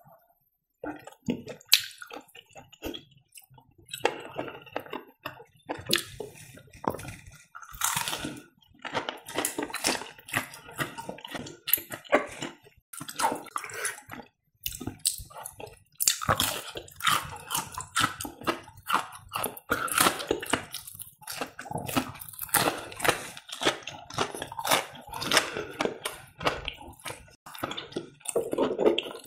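A person chewing breaded fried cheese close to the microphone: irregular mouth clicks and smacks, with a couple of brief pauses.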